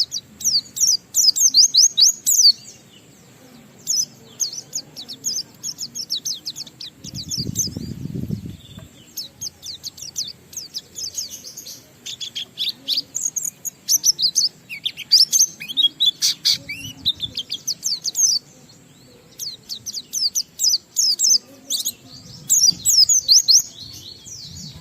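White-eye (pleci) singing: runs of very fast, high twittering notes a second or two long, separated by short pauses. A brief low rumble sounds about eight seconds in.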